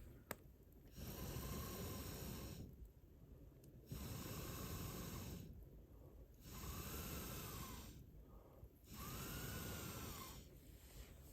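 Four long puffs of blown air, each about a second and a half, the later two with a faint whistle that rises and falls: someone blowing on a campfire to liven the flames. A single sharp crack from the fire about a third of a second in.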